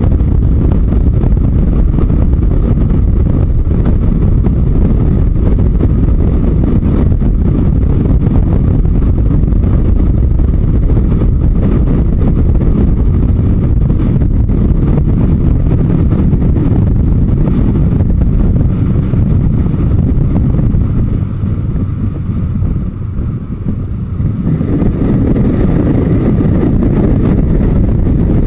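Onboard riding sound of a Yamaha Diversion 900's air-cooled inline-four engine under way, buried in a steady, loud rush of wind on the microphone. About three-quarters of the way through it drops in level for a few seconds, then picks back up.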